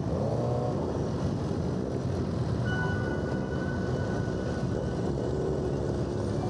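Sportbike engines running, a steady drone with a short rising rev near the start and another near the end.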